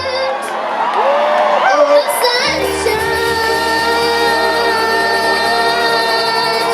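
Live band playing a held chord with a singer's voice sliding over it, and some shouts and whoops from the crowd; the chord changes about two and a half seconds in.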